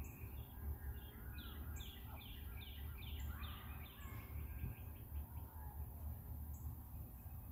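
Faint birdsong: a quick run of about six short falling notes starting about a second and a half in, with a few other faint calls, over a low steady rumble.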